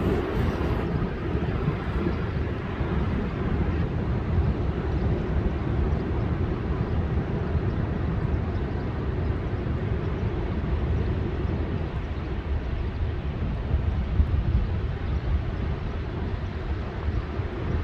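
Rough surf from a storm-driven sea breaking on a sandy beach, mixed with wind rumbling on the microphone. It is a steady low noise with no single break standing out.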